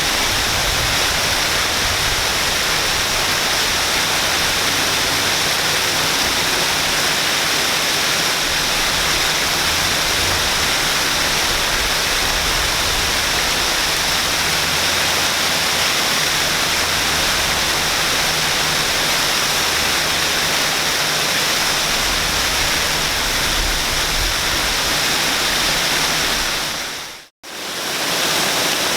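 Waterfall with a steady, loud rush of falling water. The sound dips out for a moment near the end and comes straight back.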